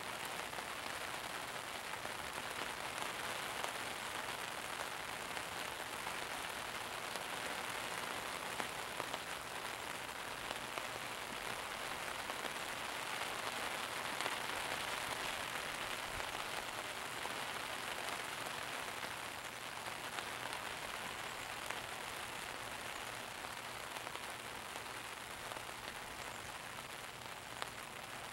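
Steady rain falling, an even hiss that swells a little around the middle and eases slightly toward the end.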